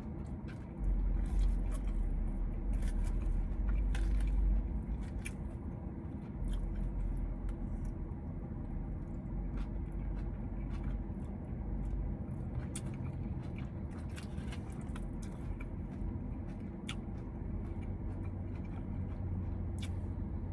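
A person chewing mouthfuls of Greek salad with grilled chicken, romaine and cucumber, with scattered short crunching clicks throughout, over a steady low hum.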